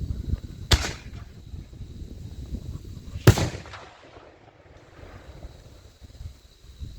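8-inch Loco salute shell fired from a mortar: a sharp launch thud as the lift charge goes, then about two and a half seconds later a single very loud report that echoes briefly.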